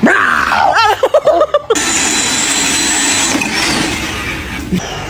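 A few short wavering cries, then a steady whirring motor noise with a faint high whine that begins a little under two seconds in.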